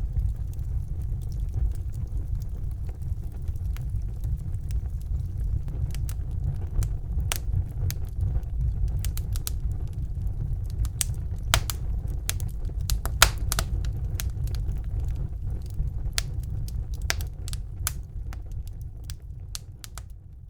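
Wood fire burning in a fireplace: a steady low rumble of flame with irregular sharp crackles and pops from the burning logs, busiest in the middle. The sound fades down near the end.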